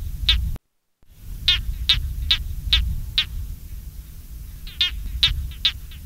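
A run of short, sharp animal calls, each a brief falling note, repeated about two to three times a second. The calls stop after a brief gap about half a second in, resume about a second in, pause past the middle and start again near the end, over a low rumble of wind or ambient noise.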